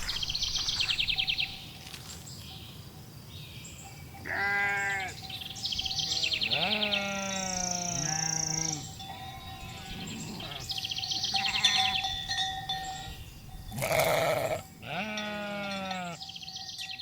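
Sheep bleating: a short bleat about four seconds in, a long drawn-out bleat or two after it, and another near the end. Birds sing fast high trills between the bleats.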